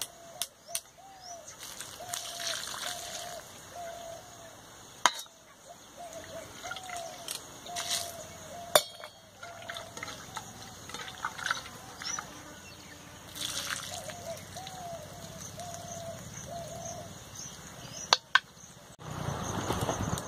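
A bird calling over and over in short, arched notes that come in three bouts, with a few sharp clicks in between and a louder rustle near the end.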